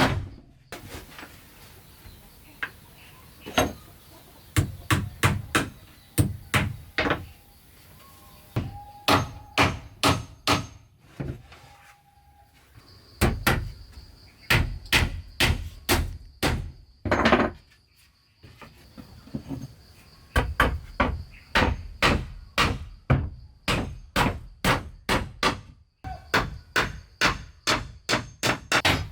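Hammer striking wood in quick runs of evenly spaced blows, a pause between each run, typical of driving nails into timber.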